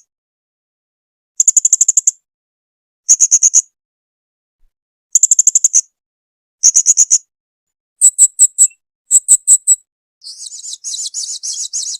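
Blue-crowned hanging parrot (serindit) calling in short bursts of five or six rapid, high-pitched chirps, one burst about every second and a half with silence between. About ten seconds in, it breaks into a continuous fast chattering trill.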